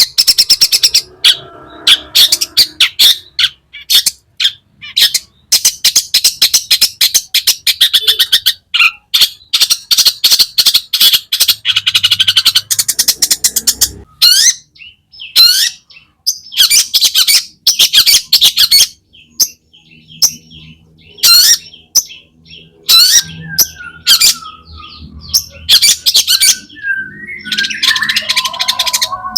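Long-tailed shrike (cendet) singing steadily: fast runs of harsh chattering notes and squawks mixed with short rising whistles. It is a full, busy song with mimicked calls worked in, with a few brief pauses between phrases.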